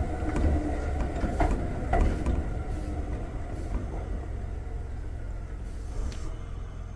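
Running sound inside a Konan Railway 7000 series (ex-Tokyu 7000) electric train car with Toyo-built traction equipment: low rumble with a faint motor whine and a couple of sharp wheel clicks over rail joints early on, growing gradually quieter as the train slows down.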